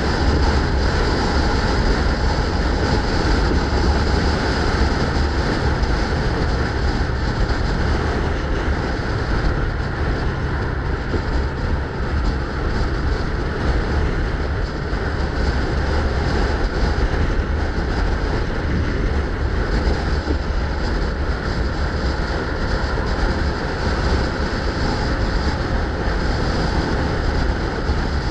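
Steady wind noise rumbling on the microphone from riding a bike, mixed with road and traffic noise. It runs loud and unbroken throughout.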